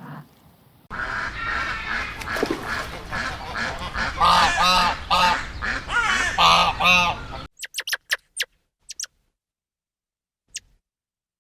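A flock of waterfowl calling together, a dense chorus with several loud calls standing out over it. About two-thirds of the way in it cuts off abruptly to a few brief, very high, thin chirps.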